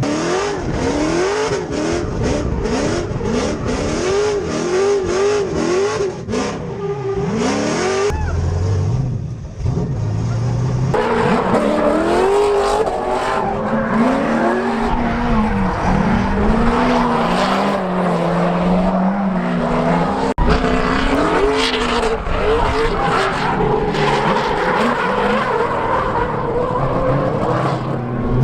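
A 6.0-litre LS V8 (LQ9) in a drift car, revved hard with the pitch rising and falling over and over. For the first several seconds the throttle goes on and off in quick bursts. From about ten seconds in, tyre squeal from a sustained drift runs over the engine.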